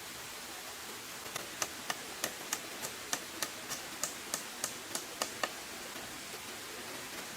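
A quick, even run of about fifteen light taps or knocks, roughly three a second, starting a little over a second in and stopping about two seconds before the end, over a steady hiss.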